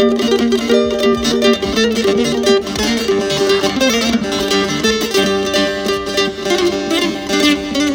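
Music played on a plucked string instrument: quick picked notes over some longer held notes.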